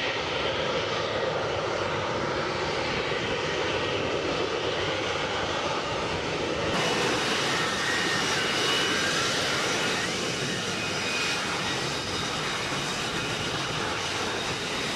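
F-35B Lightning II's F135 jet engine running, a steady loud jet roar. About seven seconds in the sound changes abruptly and a high whine comes in over the roar, and it shifts again about ten seconds in.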